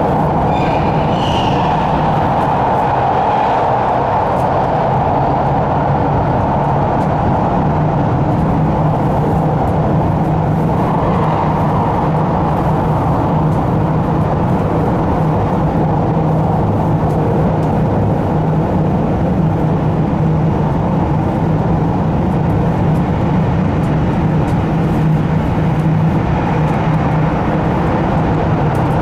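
Running noise inside a 789-series electric train's motor car at steady speed, a loud constant rumble with a low hum, likely heard in the Seikan Tunnel. A faint shifting whine is heard in the first couple of seconds.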